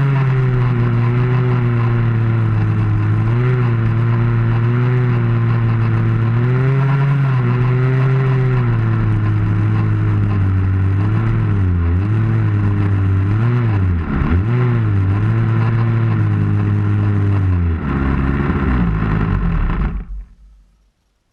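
RC model airplane's engine running close up, its pitch wavering up and down with the throttle. It drops lower near the end and then stops abruptly.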